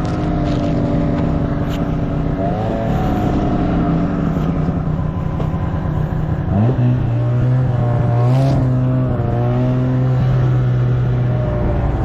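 Snowmobile engine running under way, its revs wavering briefly a couple of times and stepping up in pitch about halfway through.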